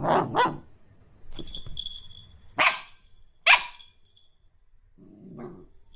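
Dog barking in separate short barks, the two sharpest and loudest a little after the middle, then a low growl near the end.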